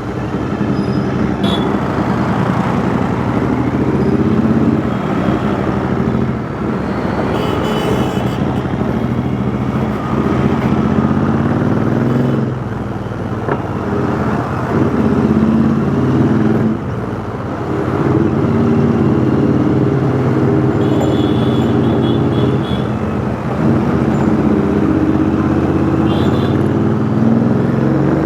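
Royal Enfield Interceptor 650's parallel-twin engine running through a custom 2-into-1 exhaust while riding in city traffic. The exhaust note rises and falls with the throttle and drops off briefly several times, over road and traffic noise.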